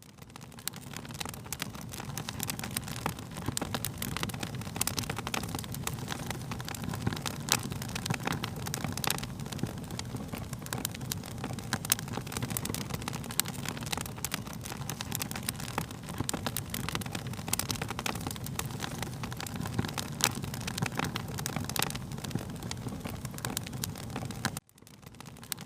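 Wood fire crackling, with many sharp pops over a steady low rumble of burning. It cuts out for a moment near the end, then resumes.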